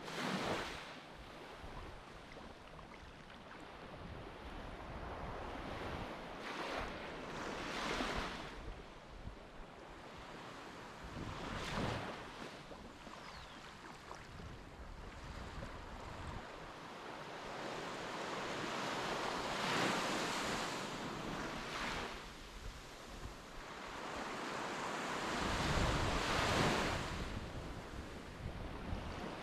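Sea waves washing in, swelling up every several seconds, with wind buffeting the microphone.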